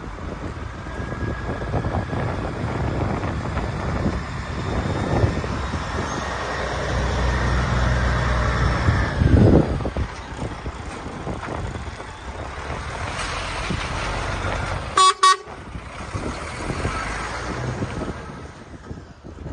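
DAF XF105 460 tractor unit running, its diesel engine rumble building to a peak about nine seconds in and then falling away. About fifteen seconds in, the horn gives two short toots.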